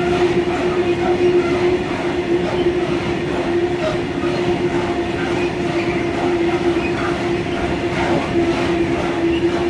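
Freight train of hopper wagons rolling past close by: a steady rumble of steel wheels on rail with a steady hum running through it and faint clacks over the rail joints.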